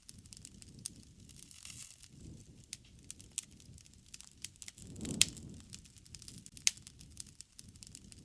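Wood fire crackling, with sharp pops scattered irregularly throughout; about five seconds in, the loudest pop comes with a brief low rumble of flame.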